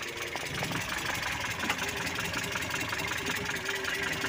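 Mitsubishi Colt T120's four-cylinder petrol engine idling steadily with a quick, regular ticking, while its distributor is being turned to set the ignition timing.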